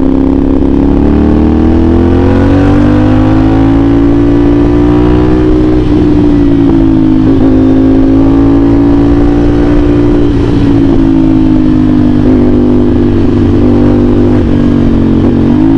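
CFMOTO 450SR S parallel-twin engine with an AR aftermarket exhaust, under way at a fairly steady speed. The engine note rises and falls gently, with a few brief dips in pitch.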